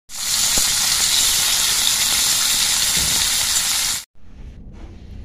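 Green beans frying in hot oil in a pan: a loud, steady sizzle that cuts off abruptly about four seconds in, leaving a much quieter background.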